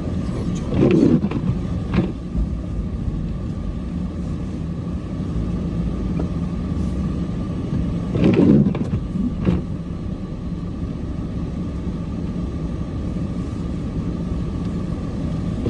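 A vehicle engine running steadily with a low rumble, with two brief louder swells, about a second in and about eight and a half seconds in.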